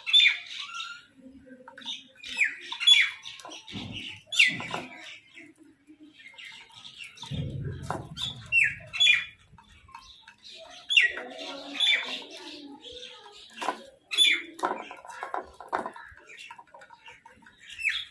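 Crows and mynahs calling over and over, with loud harsh squawks that fall in pitch, several to a burst. A brief low rumble comes about halfway through.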